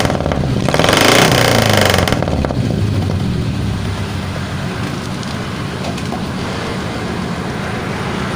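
Carbureted Suzuki Futura's four-cylinder engine, breathing through a newly fitted 4-3-1 header and aftermarket muffler, revved once about a second in, then settling back to a steady idle.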